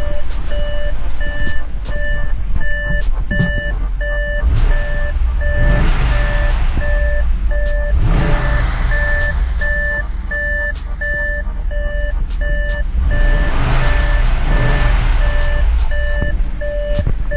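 Audi S6's 4.0 twin-turbo V8 idling and blipped three times, the last rev held longer, freshly fitted with used turbos and first run without coolant; the owner thinks it has a slight misfire. A warning beep repeats about twice a second throughout.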